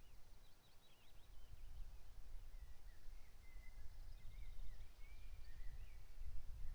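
Faint songbird song from the pasture and forest edge: a few quick sweeping notes near the start, then a longer warbling phrase through the middle, with a low rumble underneath.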